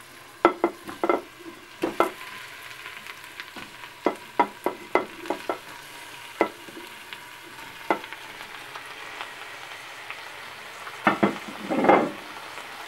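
Chicken pieces frying in hot olive oil and onion in a Moulinex Cookeo electric multicooker bowl on its browning setting: a steady sizzle with irregular sharp pops and knocks, and a louder cluster of them near the end.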